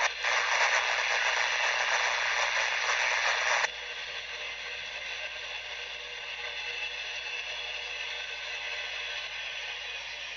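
Scanner radio static: a loud, steady hiss that drops off abruptly about a third of the way in, leaving a fainter steady hiss.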